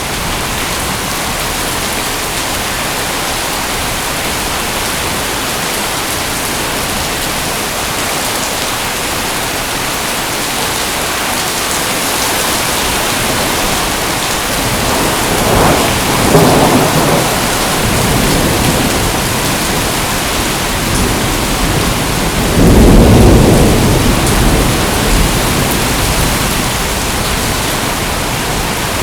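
Steady heavy rain hissing, with two low rolls of thunder: one about halfway through and a louder one about three quarters of the way in.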